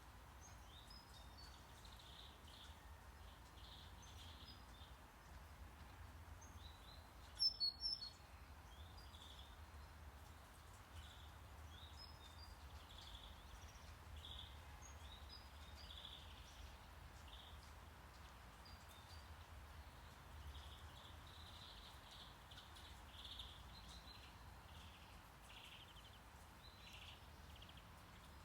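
Faint background track of small birds chirping in short, repeated calls over a low, steady brown-noise rumble. Two sharp clicks stand out about seven and a half seconds in.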